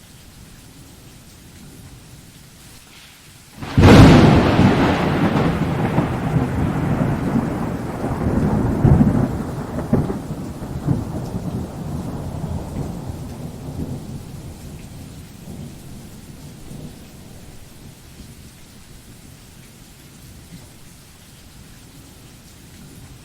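Thunderstorm with steady rain: a sharp thunderclap about four seconds in, rolling on as a low rumble that fades back into the rain over some ten seconds.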